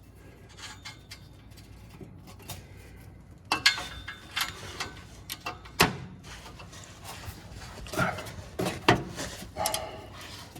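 Metal hand tools clinking and knocking against an exhaust flange bolt under a car: scattered sharp clicks, a few ringing briefly, the loudest about three and a half, six, eight and nine seconds in.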